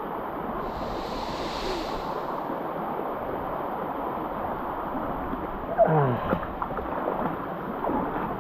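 Water of the Sticky Waterfall rushing steadily over the rock. About six seconds in, a short voice-like sound falls in pitch.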